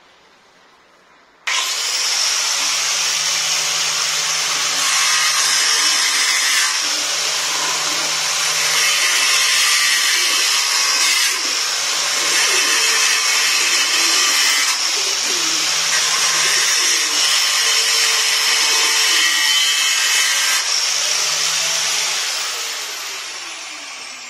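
Electric power tool starting abruptly and grinding into the fireplace's hard stone, which is taken for marble, with a hum that comes and goes as it bears on the stone; it does not cut well. Near the end the motor winds down with a falling whine.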